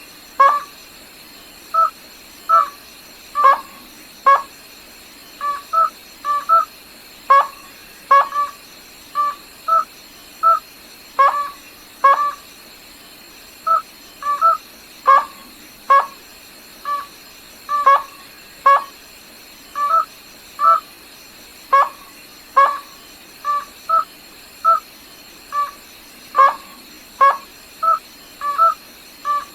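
Gà nước họng trắng, a crake, calling: short, sharp, nasal notes repeated about once or twice a second, some single and some in quick pairs, in a steady series.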